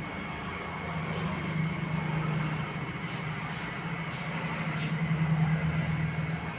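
A steady low mechanical hum that swells twice, with a few faint clicks.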